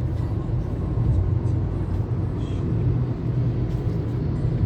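Steady low rumble of a moving car heard from inside the cabin: engine and tyre road noise while driving.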